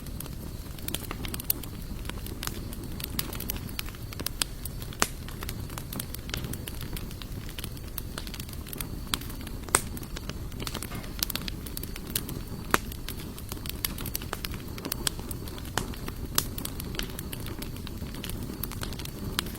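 Wood campfire of sawtooth oak and mixed hardwood logs burning, with a steady low rumble of flames and frequent sharp crackles and pops, the loudest about ten and thirteen seconds in.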